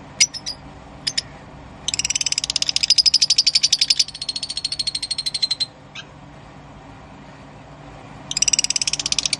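Lovebird chattering: a few short, sharp high chirps, then a long, rapid trill of fast repeated notes lasting a few seconds. A second burst of the same trilling comes near the end.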